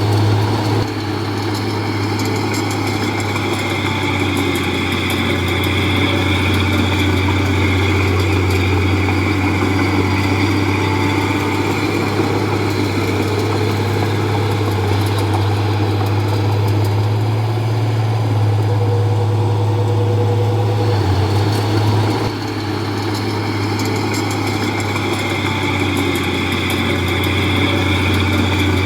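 Heavy diesel engine of earthmoving machinery running steadily, with brief dips in level about a second in and again about 22 seconds in.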